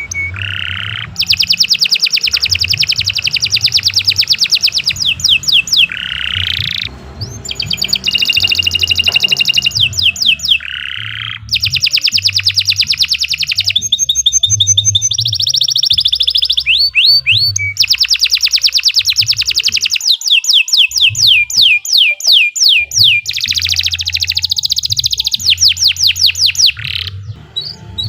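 Domestic canary singing long, rapid trilled phrases. Each run is several seconds of fast repeated notes, often ending in a few falling sweeps, with short pauses between runs.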